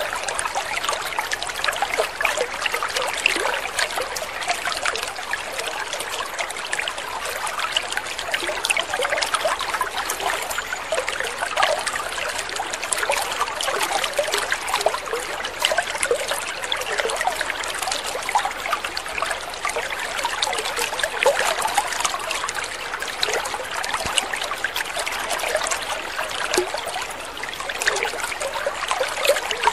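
Water trickling steadily, a continuous splashy gurgle made of many small quick droplets and plinks, with no pauses.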